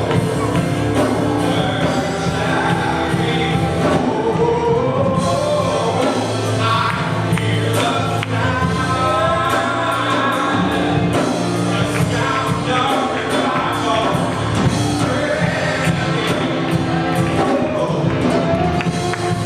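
A church worship band and singers performing a gospel worship song with a steady beat.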